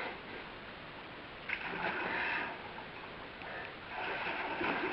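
Water splashing and sloshing in a canyon pool as a swimmer moves through it, in two swells, about one and a half seconds in and again near the end.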